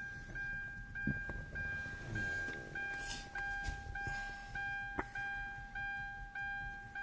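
A car's electronic warning chime sounding over and over, a steady two-pitch tone broken about twice a second, with a sharp knock about a second in and a louder click about five seconds in.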